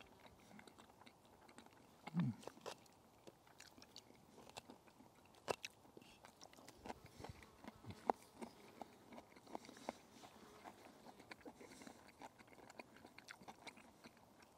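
A person chewing a mouthful of fried cabbage and bacon, with quiet scattered clicks and crunches from the crisp pieces. About two seconds in there is a short, low, falling hum.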